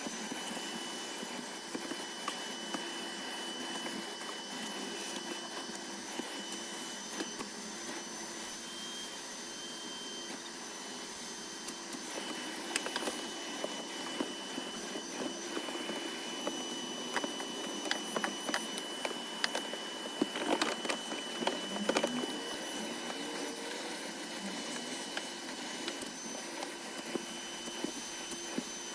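Vacuum cleaner running steadily with a high whine while cleaning car carpets and upholstery, with scattered clicks and knocks in the second half.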